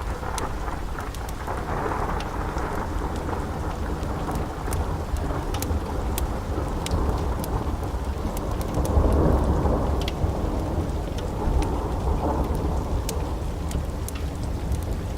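Long rolling thunder over steady rain, swelling about two seconds in and again near the middle. Scattered sharp crackles of a wood fire sound through it.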